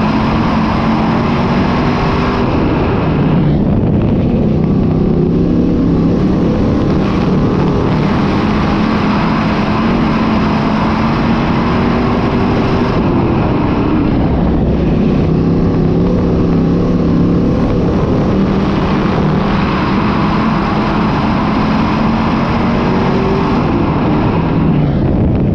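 Dirt-track modified race car engine running loud, its pitch rising and falling every few seconds.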